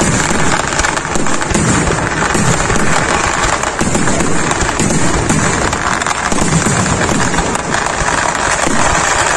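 Temple-festival fireworks display (vedikkettu): a dense, unbroken barrage of firecracker explosions whose bangs run together into one continuous crackle.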